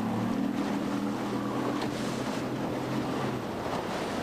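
Wind buffeting the camcorder microphone over water on a boat, with a steady low hum through most of it that stops near the end.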